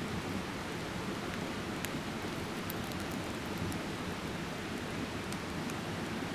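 A mountain stream rushing steadily, with a few faint sharp ticks over it.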